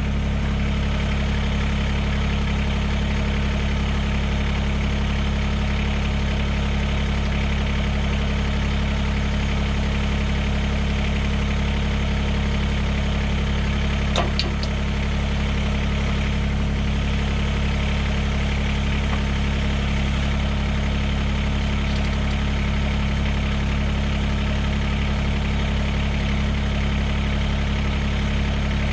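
Mahindra eMax 20S HST tractor's three-cylinder diesel engine running steadily at idle, with a brief click about halfway through.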